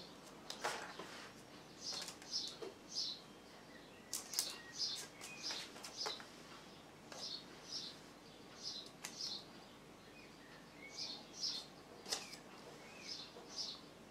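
A small bird chirping over and over in short high phrases of two or three notes, a second or two apart. A few soft clicks and scrapes come from the spatula against the bowl and baking tin.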